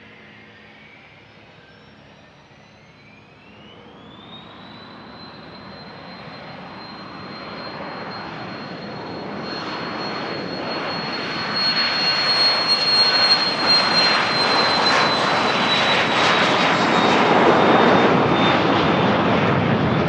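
Business jet's turbofan engines spooling up to takeoff power: a whine rises in pitch, then holds steady while the jet roar grows from faint to loud and stays loud.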